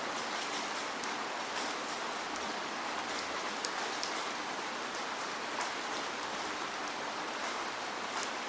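Steady rain, an even hiss with many individual drops ticking sharply on a surface throughout.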